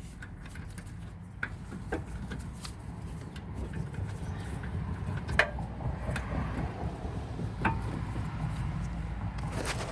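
Scattered metallic clicks and knocks of hand tools working on a rear disc brake caliper bracket, a few sharp ticks several seconds apart, over a steady low rumble.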